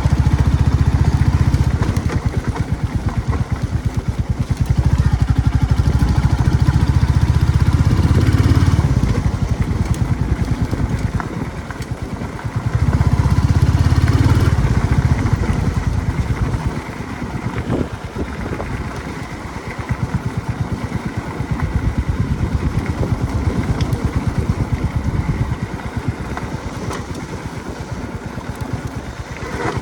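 Royal Enfield Classic 350 single-cylinder engine running under way, its exhaust pulsing low. The engine swells louder several times as the throttle is opened, then runs quieter for the last half.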